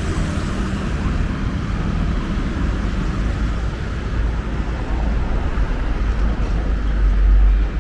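Busy road traffic rumbling steadily, with a deeper, louder low rumble building near the end as something heavy passes close.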